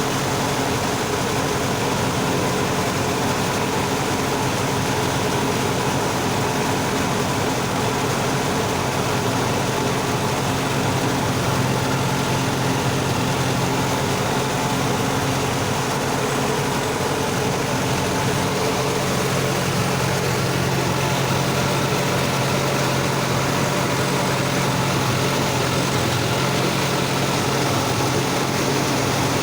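Sonalika tractor's diesel engine running steadily under load, driving a rotavator through deep mud.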